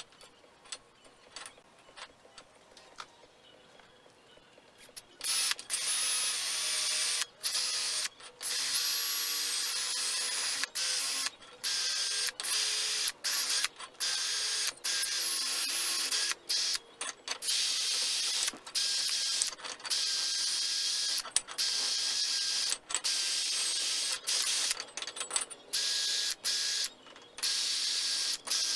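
A few light clicks and handling noises, then from about five seconds in a high-speed power tool runs with a hissing, high whine, triggered on and off in short bursts about every second.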